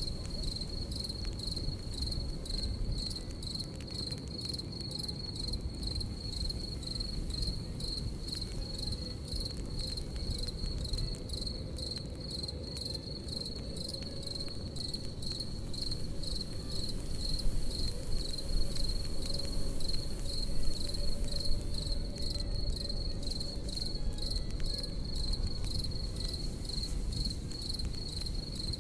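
Crickets chirping in a steady, rapid pulsing trill over the low, even rush of a campfire, with faint crackles from the burning wood.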